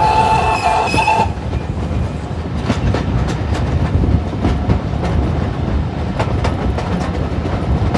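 Railway carriage of a steam-hauled train running along, heard from inside the coach: a steady rumble with irregular clicks from the wheels over the rail joints. A brief high steady tone sounds for about the first second.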